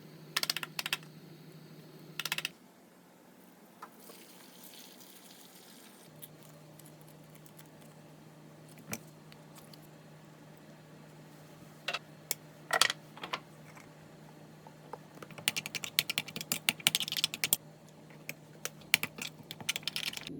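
Scattered sharp clicks and taps, turning into a quick run of clicks in the last few seconds, over a faint steady low hum.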